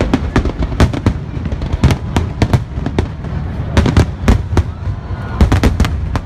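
Fireworks display, with aerial shells bursting in rapid succession: sharp bangs about three a second over a continuous low rumble.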